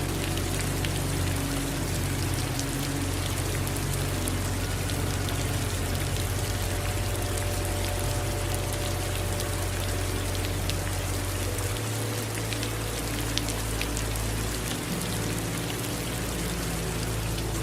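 Steady rain falling, with many individual drops ticking sharply close by. A low rumble runs underneath and shifts in character about twelve seconds in.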